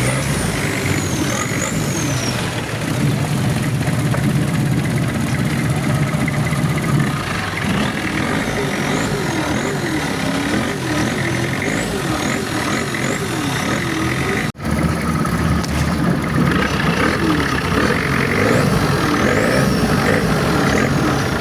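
Boat engine running steadily under way, a loud continuous drone with the footage cut once partway through.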